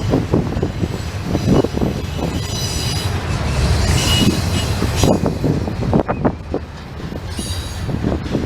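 Intermodal freight train cars rolling past with a steady low rumble and repeated clanks of wheels over the rail joints. High-pitched wheel squeal comes in briefly between about 2.5 and 4.5 seconds in, and again near the end.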